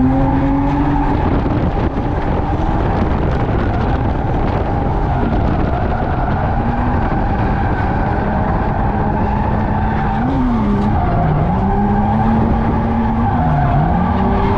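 Car engine revving, its pitch holding and then dipping and rising again several times over a loud tyre-skidding hiss: a car drifting.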